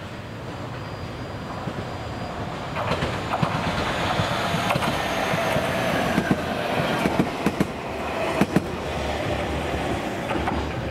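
JR Kyushu 815-series electric train arriving and passing close by, growing louder from about three seconds in, with a steady whine. Its wheels click irregularly over rail joints and points as it goes by, and the sound eases near the end.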